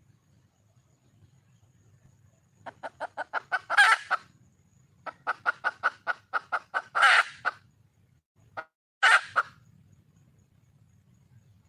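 Junglefowl hen cackling: two fast runs of clucks, each ending in a loud drawn-out squawk, then a short cluck and a last loud squawk. The title presents this as a wild hen calling for a male.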